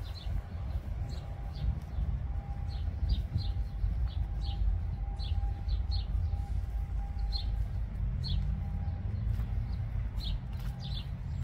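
Small birds chirping in short, high, repeated chirps about once or twice a second, over a steady low rumble and a faint steady hum.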